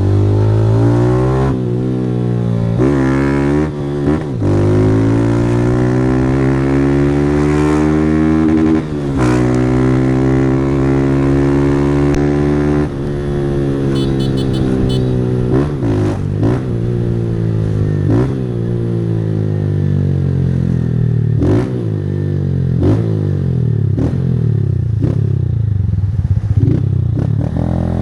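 Honda CG 160 single-cylinder engine through a Fortuna Trioval aftermarket exhaust, revving up hard through the gears: the pitch climbs and drops back at each quick gear change, several times. From about halfway the revs fall lower and more unevenly, broken by a string of short cuts as the rider eases off and changes down.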